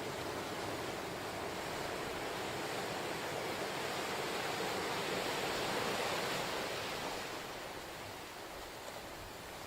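Ocean surf washing onto the shore, a steady rush of breaking waves that swells about halfway through and eases off near the end.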